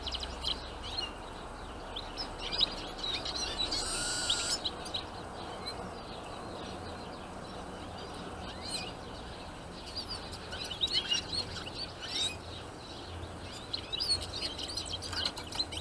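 Small songbirds chirping and twittering in quick, overlapping calls, with one longer, louder call about four seconds in.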